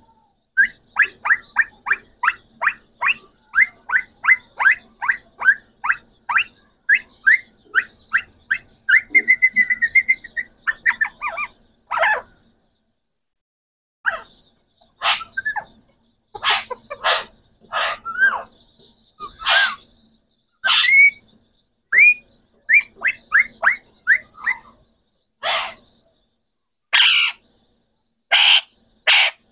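Green parrots calling: a fast run of short rising whistled notes, about three a second, with a brief trill, then after a short pause louder, harsher and more varied calls and screeches.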